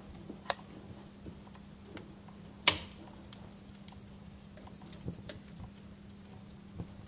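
Wood fire crackling, with scattered sharp pops and snaps, the loudest about two and a half seconds in, over a faint steady hum.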